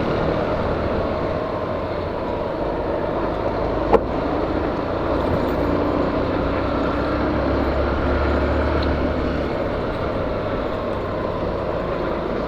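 Honda CG 125 Fan motorcycle's single-cylinder engine running steadily while riding, under a steady rush of wind and road noise, with one sharp click about four seconds in.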